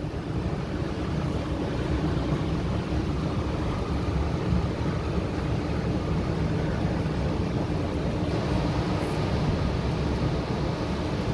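Inside a Sydney electric suburban train running slowly into a station: a steady rumble of wheels on the track and running gear, with a faint steady hum.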